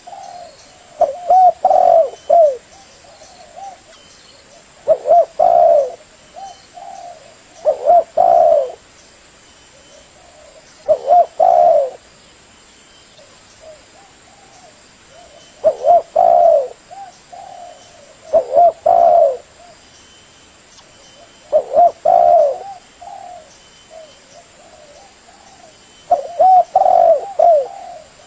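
Spotted dove (tekukur) cooing: about eight short phrases of a few coos each, repeated every three to five seconds.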